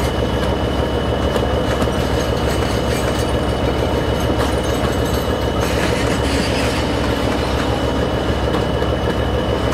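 Excursion train passenger and baggage cars rolling past at close range, steel wheels clicking over the rail joints over a steady rumble.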